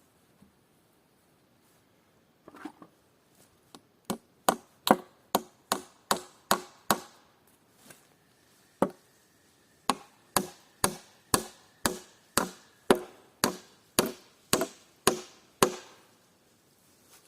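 Hammer driving nails into wood: a run of about seven steady blows at roughly two a second, a single blow, then a longer run of about a dozen, each with a short ringing note.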